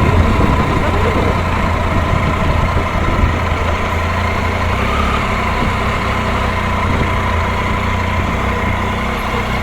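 Triumph Tiger 800 XRx motorcycle's three-cylinder engine running at steady revs, a low, even drone that hardly changes.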